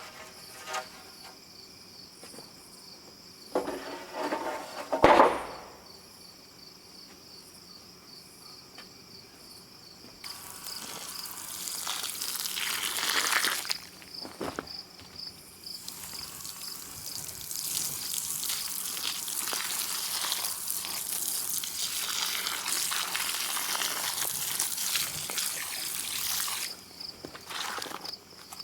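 Insects chirping steadily in a fast high pulse, with a loud rushing hiss for long stretches in the second half, like water spraying, and a brief loud sound about five seconds in.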